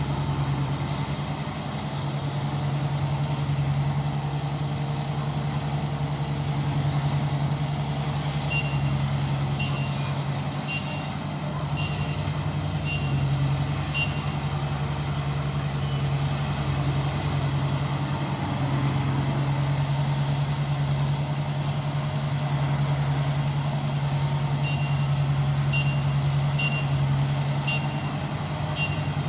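ISEKI rice combine harvester's engine running steadily under load while harvesting. A high electronic warning beep sounds about every three-quarters of a second, in one run in the middle and another near the end, like a reversing alarm.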